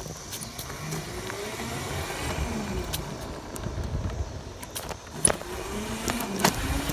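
Small dirt bike engine pulling away and riding, its pitch climbing and falling twice as it speeds up and eases off, with low wind rumble on the microphone. There is a sharp click a little past five seconds.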